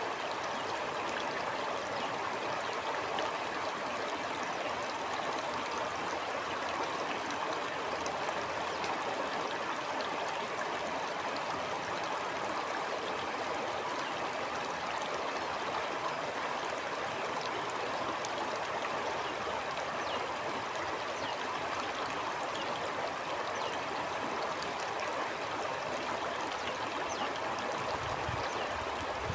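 Steady flowing stream, water rushing and trickling with small splashes. A low rumble comes in near the end.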